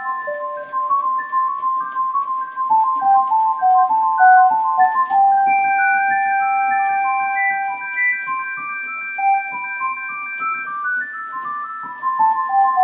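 Keyboard instrument with a pure, electric-piano-like tone playing a melody of stepped notes in two lines. A single high note is held for about five seconds in the middle while the lower line keeps moving.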